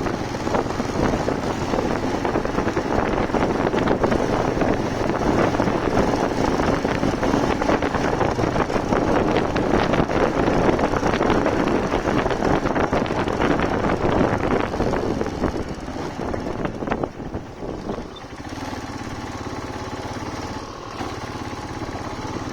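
Motorcycle engine running while riding, a dense mix of engine and road noise. About sixteen seconds in it drops to a quieter, steadier running.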